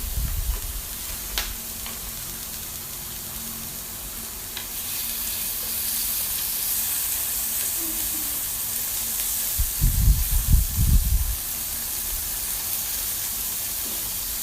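Slices of pork belly sizzling on a hot grill, a steady hiss that gets louder about five seconds in; the meat is sticking and starting to crisp and char. A few low thumps come about ten seconds in.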